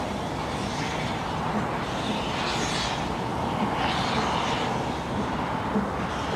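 Narrow-gauge steam train running: a steady rumble with a hiss that swells and fades every second or two.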